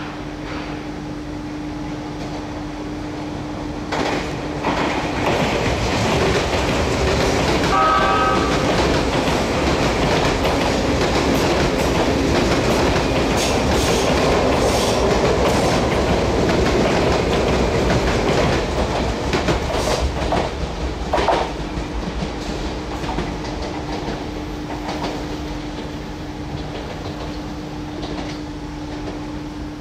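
Sagami Railway electric train running through the station, its wheels clacking over the rail joints. The noise builds about four seconds in, stays loud for some fifteen seconds and eases off after about twenty seconds, with a short tone about eight seconds in.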